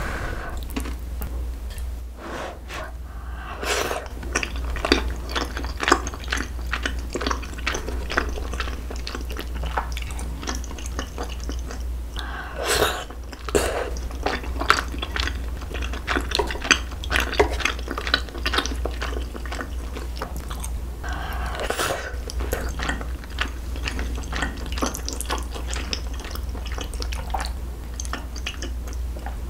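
Close-miked wet chewing and slurping of flat glass noodles and rice cakes in a creamy rose sauce: a steady stream of small sticky mouth clicks, with three longer breathy swells spread through.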